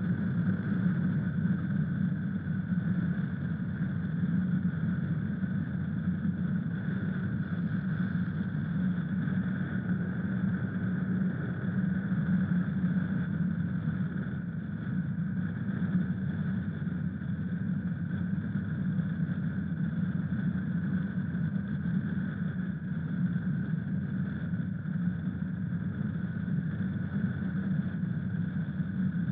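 Honda CRF1000 Africa Twin's parallel-twin engine running steadily at an even pitch, without revving.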